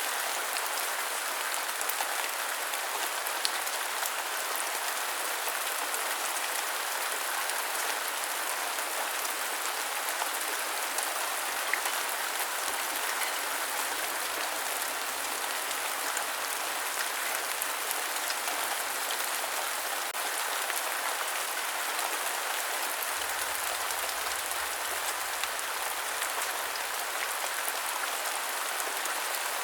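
Steady rain: an even, dense hiss full of tiny drop ticks, with no change in strength.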